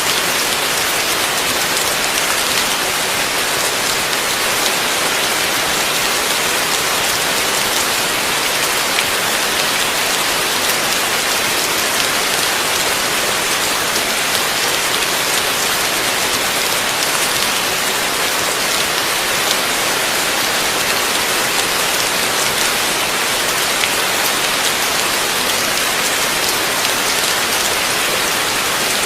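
Heavy rain falling steadily, a dense even hiss of drops hitting surfaces, with no thunder.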